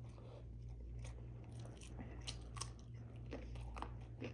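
Close-miked mukbang chewing: a mouthful of rice and beef rib being chewed, with crisp crunches from bites into a small raw cucumber. A steady low hum sits underneath.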